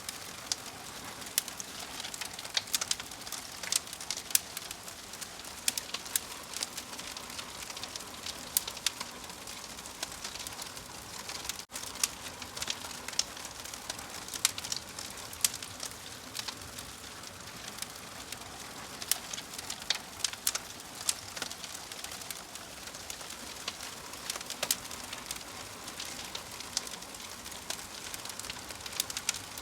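Wood fire crackling: a steady hiss with frequent, irregular sharp pops and snaps. The sound cuts out for an instant about twelve seconds in.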